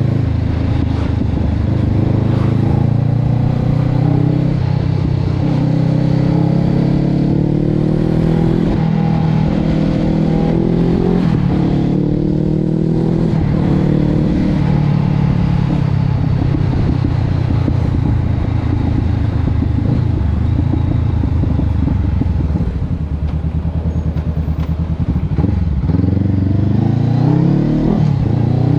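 Honda CB500X's parallel-twin engine running through an aftermarket Termignoni exhaust. Its pitch climbs and drops back several times as the engine is revved up and eased off.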